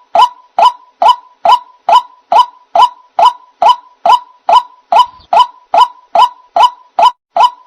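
White-breasted waterhen (ruak-ruak) lure call: a single short note repeated very evenly a little over twice a second, each with a sharp onset and a quick upward glide into a brief tone.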